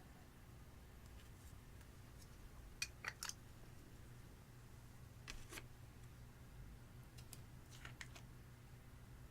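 Faint sticky pops and clicks of clear slime being pressed and stretched by hand, a couple at a time about three, five and eight seconds in.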